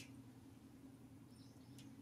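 Near silence: a low steady hum, with a few faint, short, high bird chirps and a sharp tick about a second and a half in.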